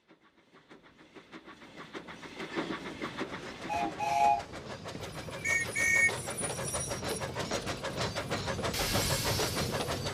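Steam locomotive chuffing in an even rhythm that grows louder as it approaches. It gives two double whistle toots, the second pair higher, and near the end a loud hiss of released steam.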